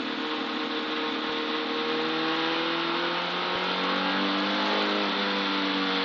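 Car engine running steadily, its pitch climbing slowly and then easing off, over a haze of road noise.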